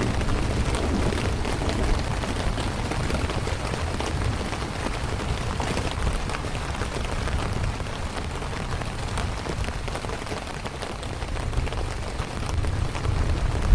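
Steady rain falling, a dense even hiss of drops with a low rumble underneath; it eases slightly about ten seconds in and picks up again near the end.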